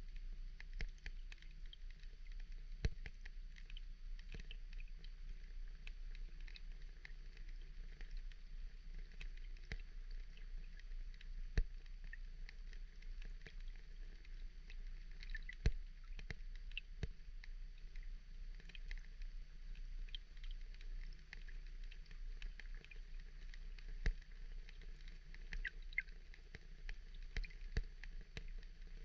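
Ambient rain-sound track: a steady low rumble under a faint crackling patter, with scattered sharp ticks like drops landing now and then.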